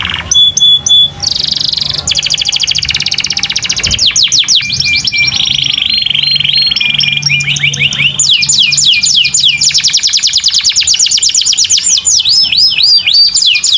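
Domestic canary singing continuously and loudly, moving through fast trills, a few held buzzy notes partway through, and then a long run of rapid downward-sweeping notes, several a second.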